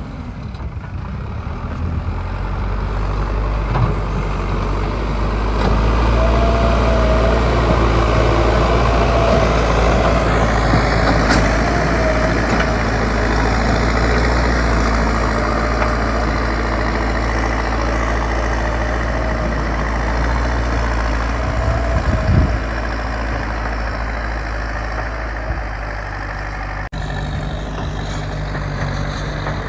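Heavy diesel engine of construction machinery running steadily and working harder from about six seconds in, with a wavering whine over it for much of the time. The sound changes abruptly near the end.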